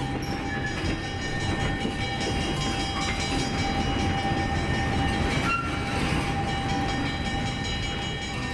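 Narrow-gauge diesel-hauled train running, a steady low rumble with a thin steady whine above it.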